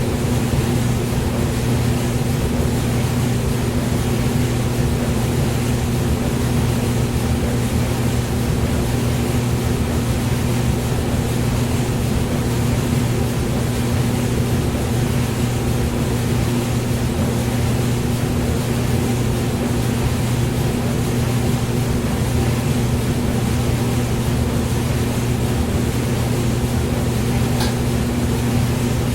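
Hair dryer running continuously: a steady motor hum under an even rush of blown air, unchanging throughout, used as white noise.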